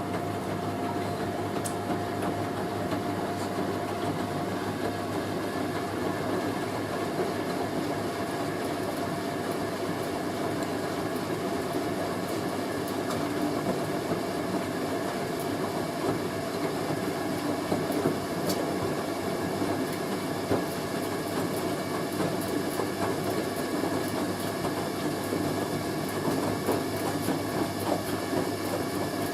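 Hoover A3060 Electronic 1100 washing machine in its first intermediate spin with a heavy sofa throw load: a steady rumble of the turning drum and motor, with a steady whine in the first half and a few sharp clicks.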